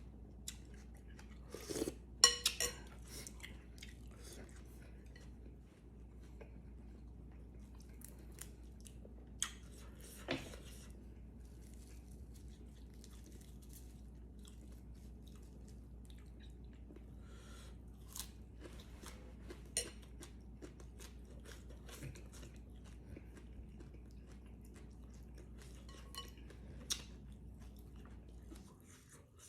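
Close-up chewing and crunching of noodles and toppings, with scattered clinks of a utensil against the bowl, the loudest cluster about two seconds in. A steady low hum runs underneath and stops just before the end.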